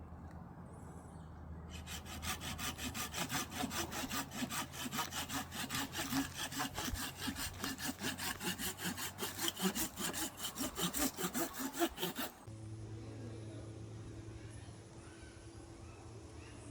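Hand saw cutting through wood, likely firewood for the campfire, in steady back-and-forth strokes. It starts about two seconds in and stops abruptly about twelve seconds in, after which only a steady low hum remains.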